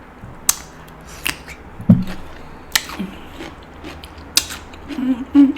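Eating steamed king crab: about six sharp, separate clicks and cracks spread unevenly over a few seconds, followed near the end by a short low hummed 'mm'.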